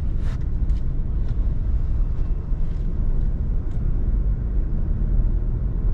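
Steady low rumble of a Mahindra XUV300 driving along at road speed: engine and tyre noise.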